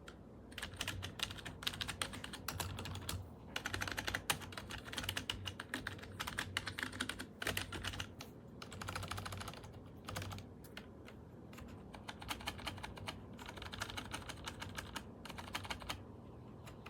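Typing on a SteelSeries Apex 5 mechanical keyboard with clicky Hybrid Blue switches: rapid key clicks in bursts, broken by short pauses.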